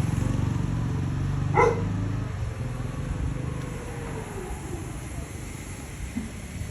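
A dog barks once, about one and a half seconds in, over a low hum that fades soon after.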